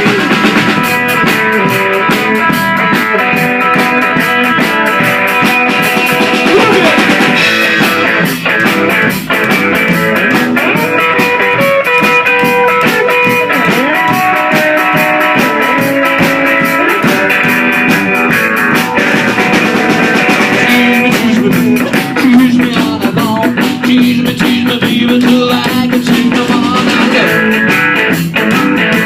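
Rock music with electric guitar and drum kit playing.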